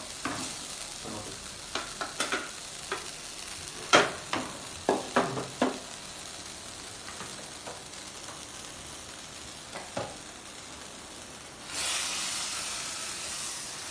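Chicken pieces sizzling in butter in a clay cooking pot, with a spatula knocking and scraping against the pot several times between about two and six seconds in and once more near ten seconds. Near the end the sizzle suddenly gets louder.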